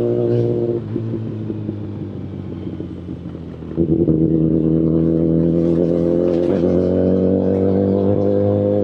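Kawasaki Ninja ZX-10RR inline-four through an Akrapovic full-system exhaust, holding a steady note, then dropping off throttle about a second in and running quieter for a few seconds. Near the four-second mark it comes back on the throttle with a sudden rise in loudness and holds a steady note again.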